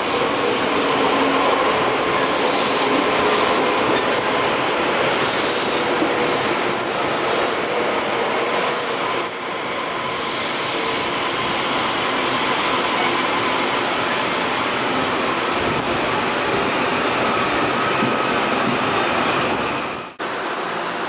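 Taiwan Railway train running past on the rails: a steady loud rush of wheel and rail noise, with thin high wheel squeals coming and going. The sound breaks off sharply near the end.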